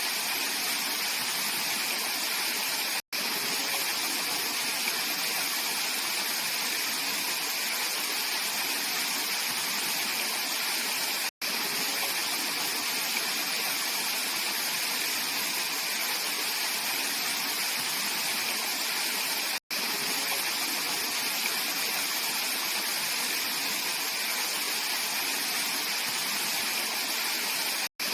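Mountain stream rushing steadily over rocks. Split-second gaps of silence break it about every eight seconds.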